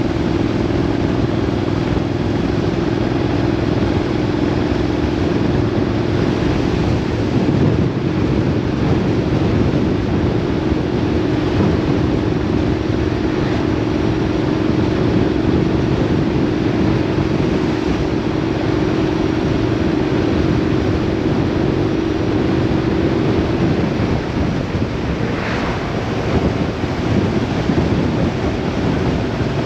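Vehicle under way on the road: a steady rush of wind over the microphone with a droning engine hum, which fades out about 23 seconds in.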